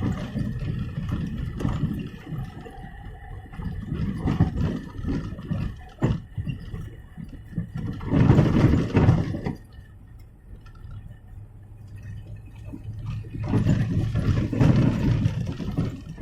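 VAZ-2107 (Lada Classic) suspension knocking and rattling over uneven road, amid uneven road and tyre rumble. There is a sharp knock about six seconds in, and two louder rushes of noise come around eight and fourteen seconds in.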